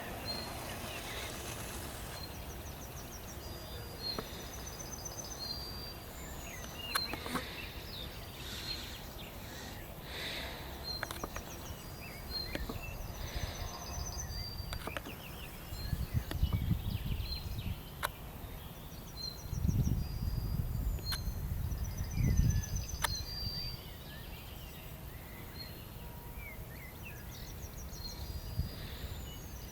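Field songbirds singing outdoors, one bird repeating a short high trilled song phrase every several seconds, with other chirps scattered around it. Wind buffets the microphone in gusts around the middle.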